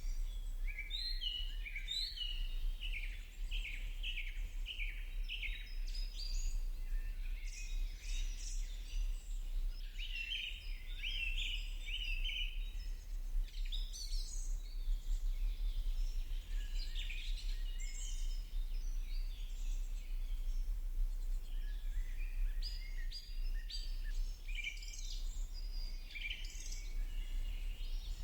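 Several birds chirping and singing at once in a busy, continuous chorus of quick high chirps and short trills, over a steady low hum.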